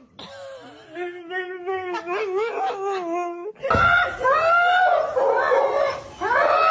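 A dog howling and whining in long, wavering, pitched calls. About three and a half seconds in, louder howls take over, each rising and falling in pitch.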